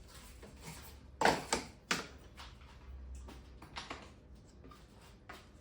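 Workshop handling noise: a string of sharp wooden knocks and clicks as pieces and tools are handled. The three loudest come close together, a bit over a second in, and lighter taps follow.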